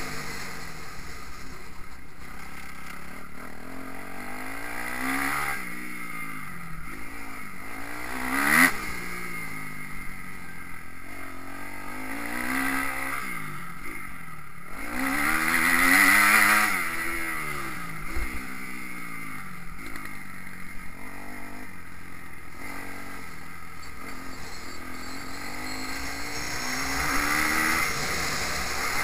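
Motocross bike engine revving up and dropping back over and over as the throttle is opened and shut, its pitch rising and falling every few seconds, loudest about a third and halfway through.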